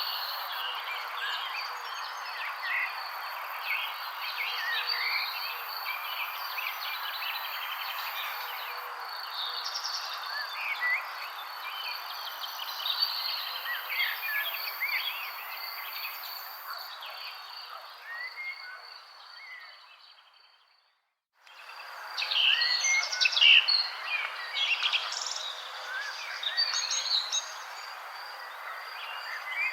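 A chorus of many songbirds chirping and singing over a steady background hiss, with a thin steady high tone running underneath. The whole sound fades out to silence about twenty seconds in and comes back a second later, the chirping louder than before.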